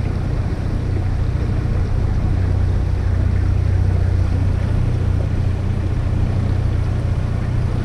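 Small boat's outboard motor running steadily under way, a low even drone.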